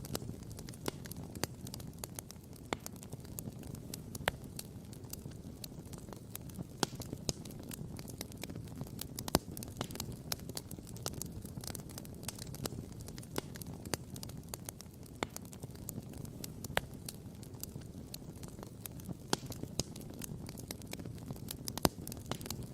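Wood campfire crackling and popping: sharp pops scattered irregularly, a few of them louder, over a steady low rush.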